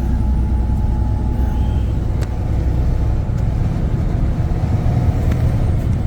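Tractor-trailer truck driving along the road: a steady low rumble of engine and road noise.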